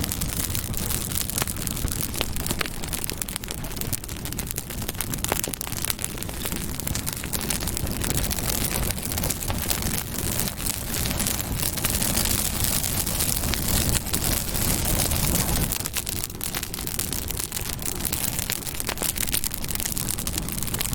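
Campfire burning, crackling with many small pops and snaps over a steady low rush of flame.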